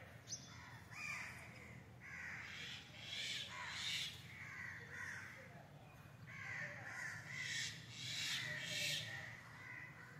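Harsh bird calls, repeated in two bouts: one starting about a second in, the other from about six seconds in.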